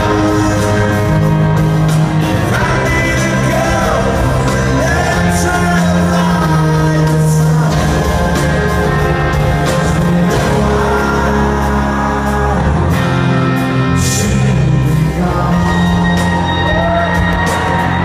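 Live rock band playing in a large hall, with a voice singing over the music.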